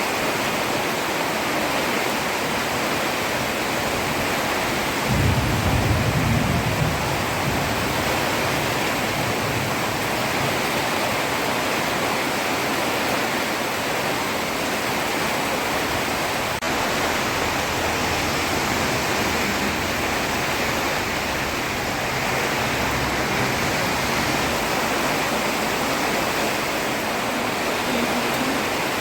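Heavy rain falling steadily on a road, an even hiss. About five seconds in, a low rumble rises over it for a couple of seconds.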